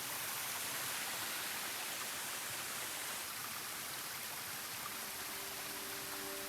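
Waterfall water rushing steadily. Background music with held tones fades in near the end.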